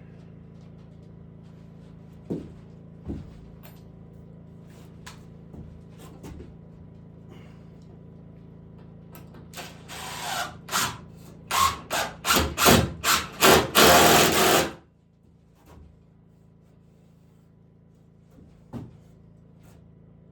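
Power drill driving into wood in a string of short trigger pulses, then one continuous run of about a second before it stops. A few single knocks come before and after, and a steady low hum underneath stops together with the drill.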